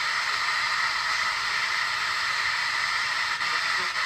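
Grundig Autosuper Weltklang 4501 valve car radio giving out steady static hiss through its speaker, tuned off-station between FM broadcasts.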